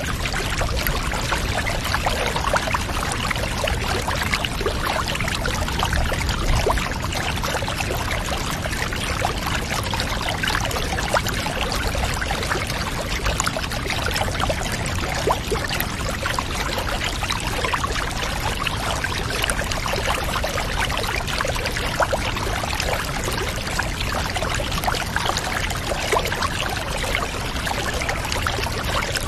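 Water pouring steadily into a bath, a continuous splashing hiss with no pauses.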